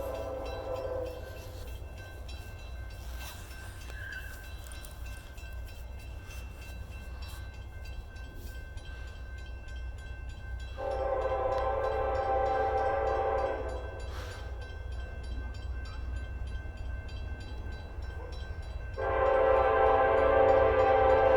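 Union Pacific freight train's locomotive horn sounding as it approaches. One blast ends about a second in, a longer chord of about three seconds comes near the middle, and another starts near the end, over a steady low rumble.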